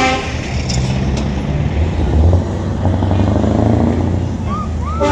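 Heavy truck engines running with a low steady rumble as lorries move along in convoy, and a truck horn beginning to sound right at the end.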